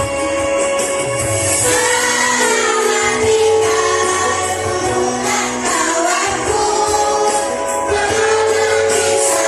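Children's choir singing in unison, holding long notes that step from pitch to pitch, over instrumental accompaniment.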